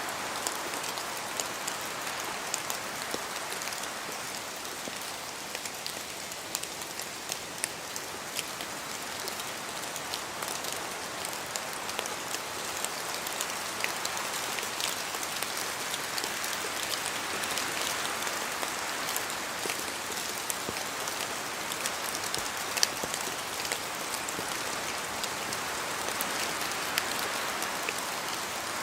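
Steady rain hiss with many individual drops from the trees ticking sharply close to the microphone, a few louder than the rest. The hiss swells gently now and then as wind moves through.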